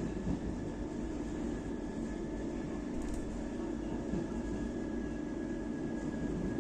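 Passenger train running: a steady rumble with a faint steady whine.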